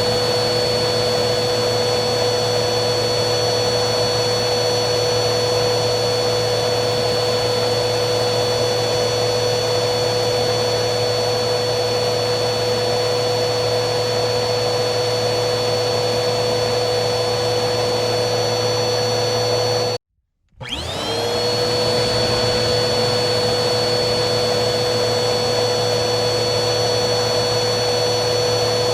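Vacuum cleaner motor running steadily: a constant rushing hiss with a high whine. About twenty seconds in it cuts out abruptly for half a second, then spins back up, the whine rising over a second or so to full speed.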